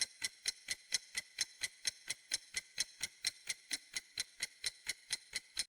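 Quiz countdown-timer sound effect: a clock-like tick repeating steadily about four to five times a second, crisp and high-pitched.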